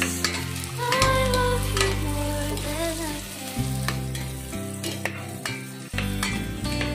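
Garlic and sliced red onion sautéing in oil in a stainless steel pot: a steady sizzle, with a metal spoon scraping and knocking against the pot as it stirs. Background music with sustained notes plays underneath.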